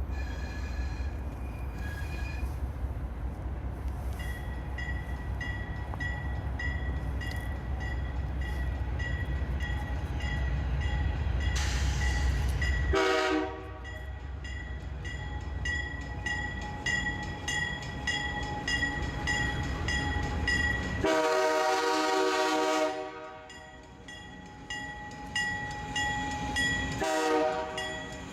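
Diesel freight locomotives running with a heavy low rumble. Then the locomotive's air horn sounds three times: a short blast about halfway through, a longer one about two-thirds in, and a short one near the end.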